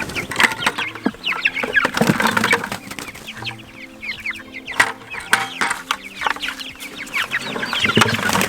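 A flock of young meat chicks peeping continuously, many short high chirps falling in pitch and overlapping.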